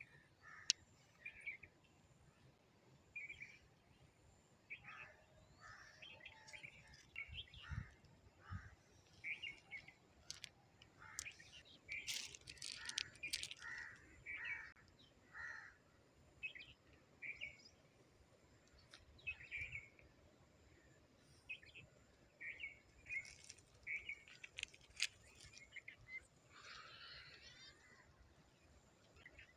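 Small birds chirping in short, repeated calls, with a brief rapid trill near the end and a few sharp clicks in between.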